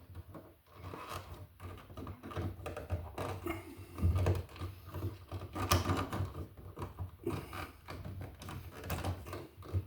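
Irregular clicks, taps and rustles of hands handling a wall receptacle and its wires.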